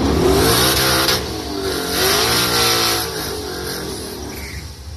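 Twin-turbocharged Coyote 5.0 V8 of a 2020 Mustang GT accelerating hard down the drag strip on low boost. The engine note climbs, drops back at two upshifts and climbs again, growing quieter as the car pulls away.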